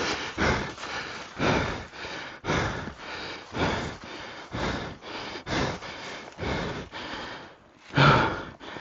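A man panting hard from exhaustion, about two breaths a second, with a heavier gasp near the end.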